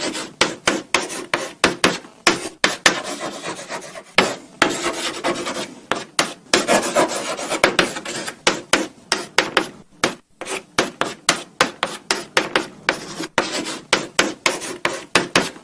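Chalk writing on a blackboard: quick, sharp taps and short scratching strokes, several a second, with two longer runs of continuous scraping a few seconds in.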